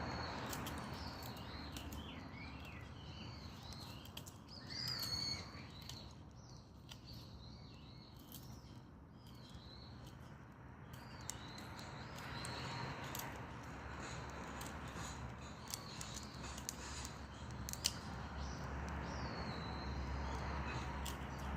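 Dry perilla branches burning in a Solo Stove wood-burning stove, crackling with frequent sharp pops. Birds call in the background, loudest about five seconds in.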